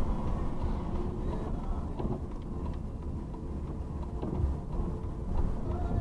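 A road vehicle running: a steady low rumble of engine and road noise, with a few faint pitched tones and light ticks over it.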